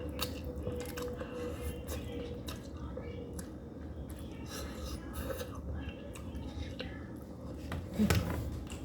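Spicy noodles being chewed close to the microphone: a run of small, irregular wet clicks over a steady low hum. A louder sudden sound comes near the end.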